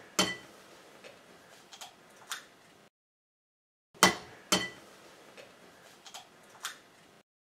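Two eggs cracked one after the other against the rim of a glass container: each gets two sharp knocks, followed by a few lighter clicks of shell. The second egg's knocks come about four seconds in.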